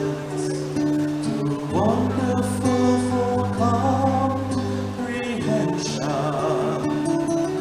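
Live church worship music: singing voices over a steady instrumental accompaniment with held low notes and guitar.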